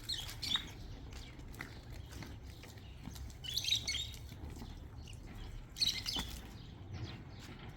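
Small birds chirping in three short bursts, near the start, about halfway through and a little past the middle, over a steady low background hum.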